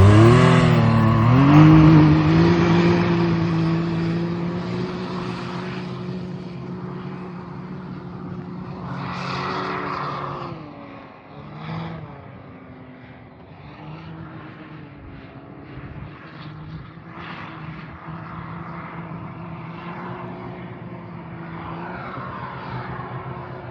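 Turbocharged Can-Am side-by-side engine revving up, then holding a steady pitch while it grows fainter. A turbo whoosh rises above the engine about nine to ten seconds in, with lighter ones later.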